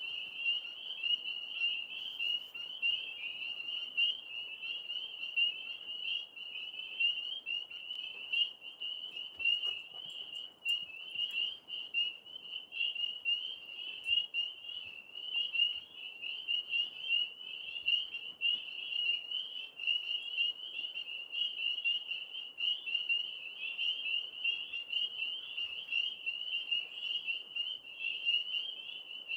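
A dense chorus of many frogs calling at once: a steady, high-pitched, fast-pulsing trill with no breaks.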